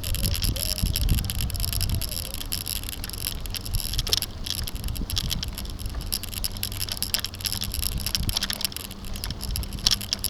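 Bicycle rolling over a bumpy road, picked up by a bike-mounted camera: a steady rumble of tyres and frame vibration with frequent rattling clicks.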